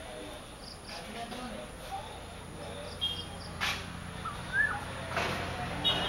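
Scattered bird calls: short high chirps, a brief rising whistled note and a couple of sharp, harsh notes, over a steady low hum that comes in about two seconds in.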